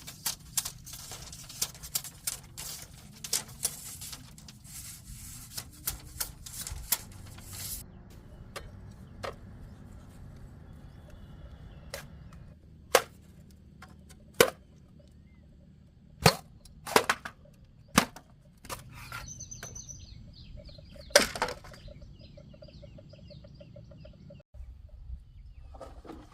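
A series of sharp knocks and strikes: a quick irregular run at first, then a dozen or so louder single strikes spaced a second or more apart. The background sound changes abruptly twice.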